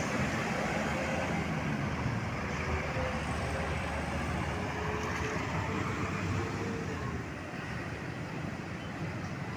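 Steady roadside traffic noise: the engines and tyres of passing vehicles, easing off a little near the end.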